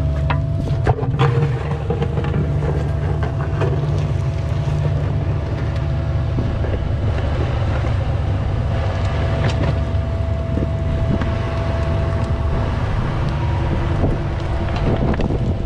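Diesel engine of a Cat mini excavator running steadily, with a steady high whine that fades out near the end and a few sharp knocks in the first couple of seconds.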